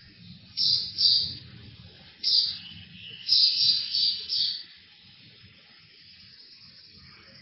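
A bird chirping, about seven short high chirps in the first four and a half seconds, over a low steady rumble.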